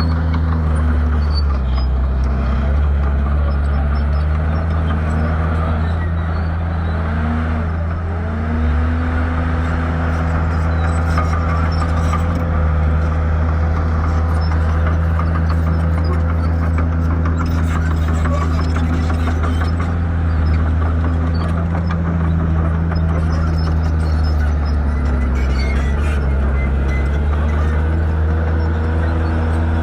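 Shantui bulldozer's diesel engine running under load while clearing land. Its pitch dips and recovers several times in the first eight seconds, holds steadier through the middle, and dips again a few seconds before the end.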